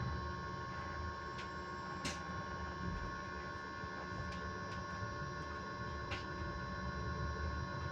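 Electric bus giving off a steady whine that holds a constant pitch, several high tones at once, over the low rumble of the bus in motion. Two sharp clicks or rattles come about two and six seconds in.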